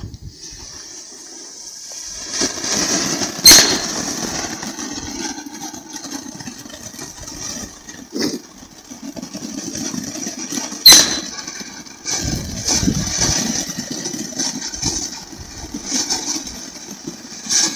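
Brilliant Butterflies firework from a fountain-heavy selection box burning with a steady hiss over a low rumble. It gives two sharp bangs, about three and a half and eleven seconds in, and a fainter pop around eight seconds.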